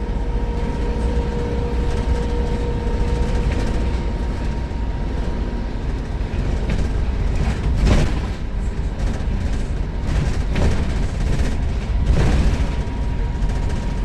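Volvo B7RLE bus's six-cylinder diesel engine running on the move, a steady low rumble. A steady whistle holds for the first few seconds, and several sharp knocks and rattles break through, the loudest about eight seconds in.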